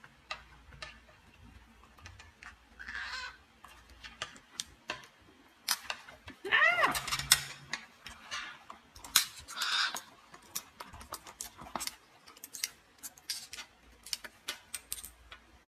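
Pet parrot calling: short scratchy squawks, with one pitched call that rises and falls about seven seconds in, among many small clicks and taps.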